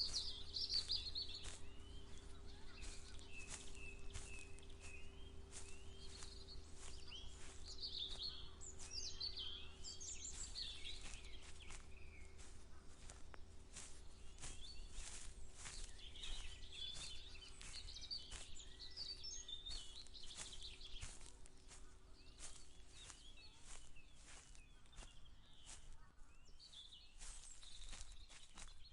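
Small birds chirping and singing over a walker's regular footsteps, about two steps a second, with a steady low rumble beneath and a faint steady hum that fades out about three-quarters of the way through.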